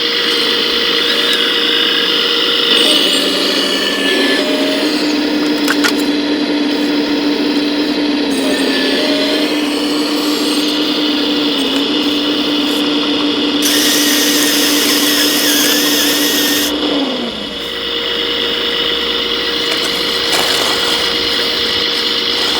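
Small electric motors of 1:14-scale RC construction machines running with a steady whine, their pitch shifting now and then as the machines work, and stepping down briefly about three-quarters of the way through.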